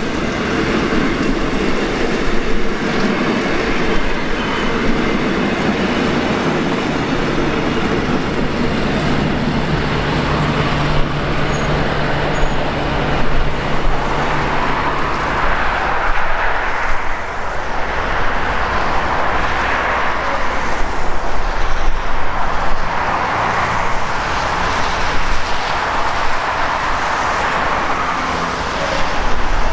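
Heritage passenger train carriages rolling past on the rails, their wheels clattering over the track.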